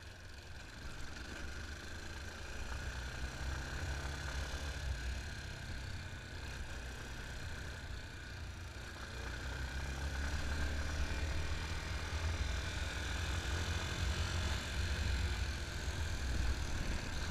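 Yamaha Fazer 250's single-cylinder engine running steadily as the motorcycle is ridden, getting louder about halfway through.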